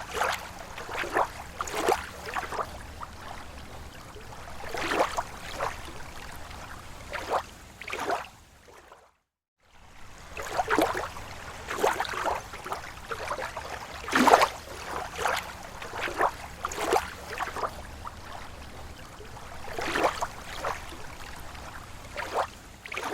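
Small waves lapping against a lake shore, slapping and splashing at irregular intervals. The sound drops out briefly about nine seconds in.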